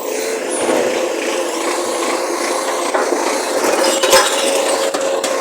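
Recycling truck's engine running steadily, a constant mechanical hum with a held tone, with a single knock about four seconds in.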